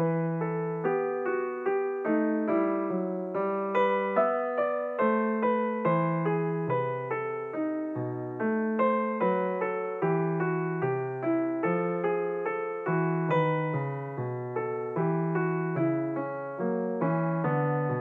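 Instrumental piano music: a melody played note by note at a steady pace over a low accompaniment, each note struck and then fading.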